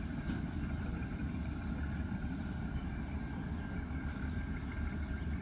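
Freight train of grain hopper wagons rolling slowly along the track, a steady low rumble.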